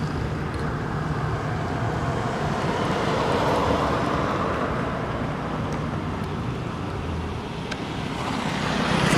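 Steady outdoor background noise like distant road traffic, swelling slightly about three to four seconds in and again near the end.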